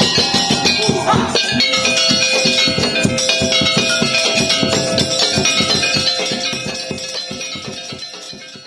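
Madurese tong-tong (daul) percussion ensemble playing a fast, rhythmic piece with drum strokes under steady held tones, fading out over the last few seconds.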